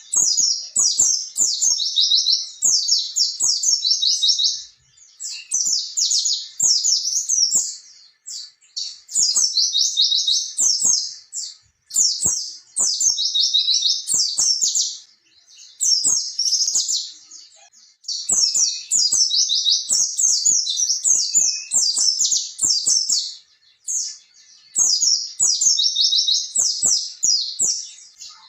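White-eye (pleci) singing a long, rolling, high-pitched song in fast twittering phrases of a couple of seconds each, with short breaks between them.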